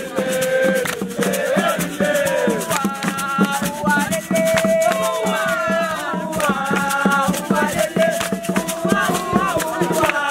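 Singing voices over shaken rattles that keep up a fast, steady rhythm.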